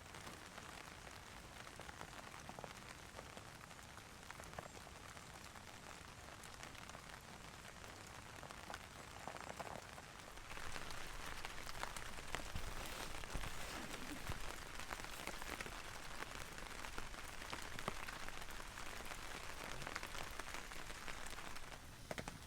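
Steady rain falling and pattering, with scattered drop ticks; it grows louder about halfway through.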